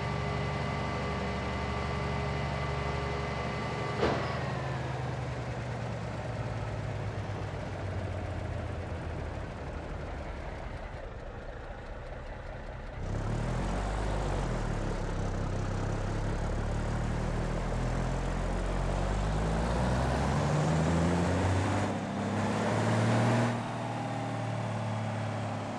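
A vehicle engine running steadily, with a single click about four seconds in. About halfway through it gets louder, and near the end its pitch rises for a few seconds before it drops back.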